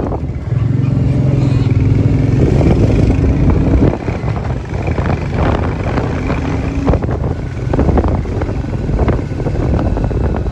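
Motorcycle engine running during a ride, holding a steady note for the first few seconds, then rougher and more uneven.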